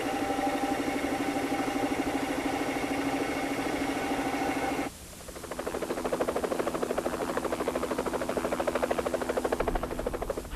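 Car engines idling with a steady, rhythmic pulse. About five seconds in, the sound briefly drops away and another engine idle comes in.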